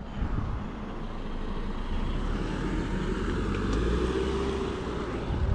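Sur Ron electric dirt bike being ridden: a thin motor whine that slowly rises and falls in pitch with speed, over a steady low wind rumble on the microphone.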